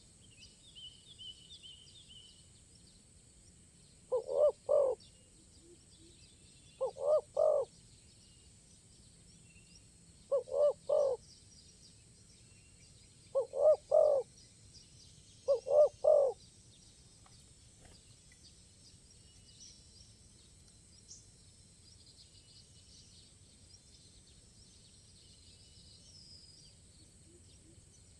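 Spotted dove (tekukur) cooing: five three-note coos about three seconds apart, ending about 16 seconds in. Faint high chirping runs in the background.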